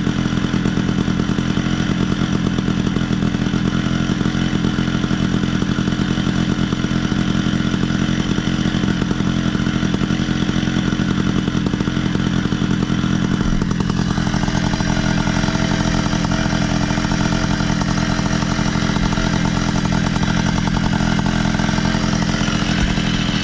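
Puch E50 50cc two-stroke single-cylinder moped engine running steadily on its first start after being swapped into the frame, still untuned on a knockoff PWK carburettor; about two-thirds through, its tone shifts slightly lower.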